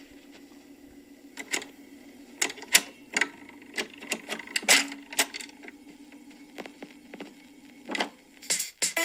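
Irregular sharp clicks and metallic clinks of hand tools being handled during car bodywork, over a steady low hum.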